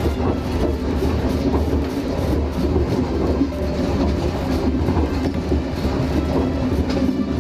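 Train running along the track, heard from on board: a steady rumble with scattered clicks of the wheels over rail joints.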